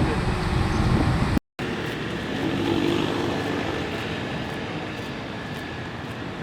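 Motor vehicle noise: a loud, steady low rumble that cuts off abruptly about a second and a half in. A quieter, steady background of vehicle and road noise with a faint hum follows.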